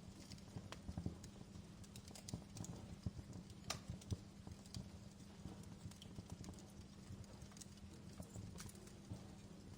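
Wood fire crackling in a fireplace: irregular snaps and pops over a low, steady rumble of the flames, with a couple of sharper pops a little before the middle.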